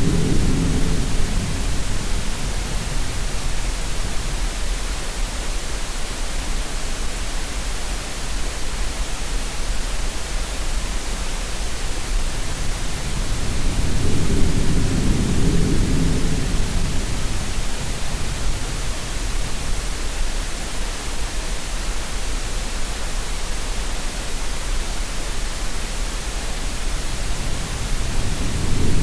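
Steady green-noise hiss layered with sea sounds: a low surge swells and fades about every fourteen seconds, once near the start, once in the middle and again at the end.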